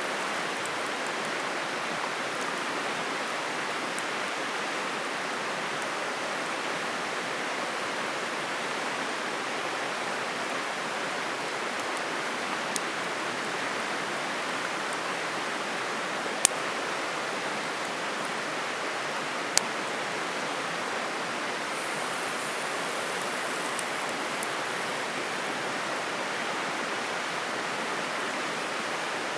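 Steady rushing of flowing water, with a few sharp clicks partway through.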